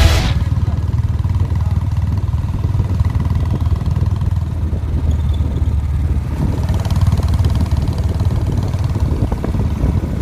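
Royal Enfield Bullet motorcycle's single-cylinder engine running at a steady pace while riding.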